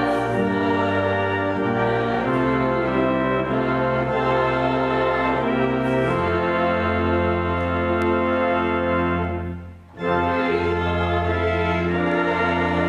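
Church organ playing held chords in a slow phrase. The sound fades briefly at a phrase break about ten seconds in, then the organ comes back in.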